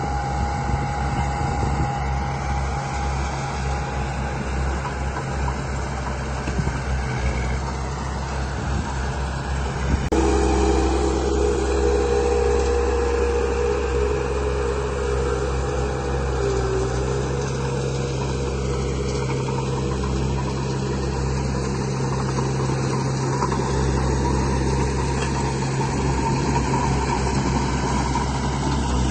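Steady engine-like running drone of radio-controlled model construction vehicles, with an abrupt change about ten seconds in, after which a higher whine runs for several seconds and dips in pitch.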